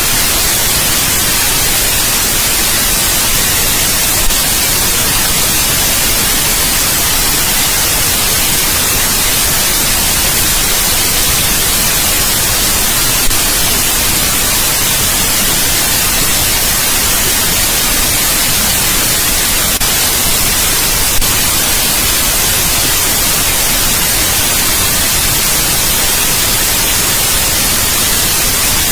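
Steady white noise used as a sleep sound: an even, unchanging hiss, strongest in the treble, with three faint clicks.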